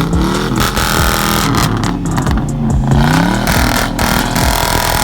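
Car engine revving hard, its pitch climbing and dropping several times in quick succession.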